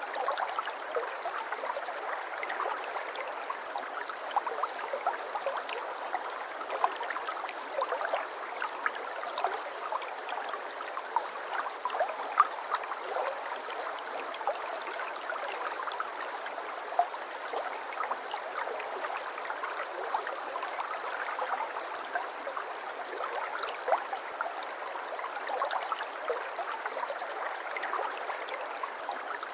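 Shallow brook babbling: a steady run of water over stones, with many small quick splashes and gurgles and no low rumble.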